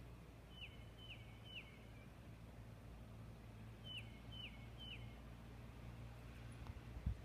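A songbird singing two phrases of three clear whistled notes, each note held and then dropping sharply in pitch, about half a second apart, over a steady low hum. A short low thump comes near the end.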